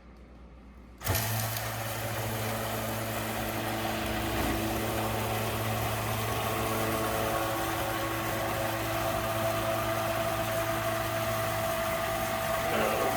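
A small electric submersible sump pump switches on about a second in and runs with a steady hum and hiss. It is pumping vinegar for a descaling flush of a tankless water heater, but against a valve left shut, so no flow returns yet.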